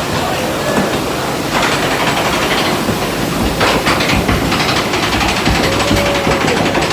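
Log flume ride's lift conveyor carrying the boat uphill: a steady mechanical rumble with a fast clatter running through it.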